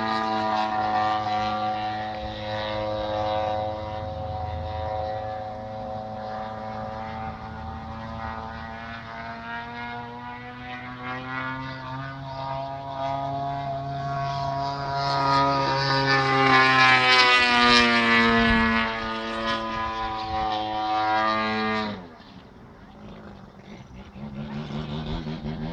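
Large radio-controlled model airplane's engine running in flight, a steady buzzing drone that rises in pitch and loudness as the plane passes close, then falls in pitch as it flies away. It drops off abruptly near the end.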